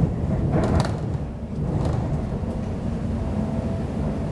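Class 345 electric multiple unit running at speed, heard from inside the passenger car: a steady low rumble of wheels on track, with two short clacks from the wheels about one and two seconds in.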